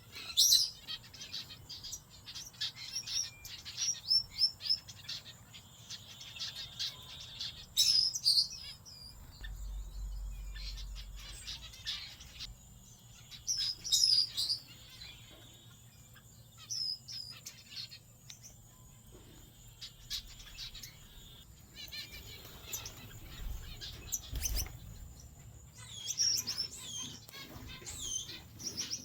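A mixed flock of small aviary finches (Gould's, zebra, star, parrot and owl finches) chirping and calling, short high notes coming in busy clusters.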